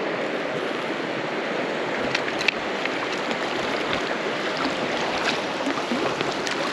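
South Platte River water rushing steadily, with a few brief clicks about two seconds in.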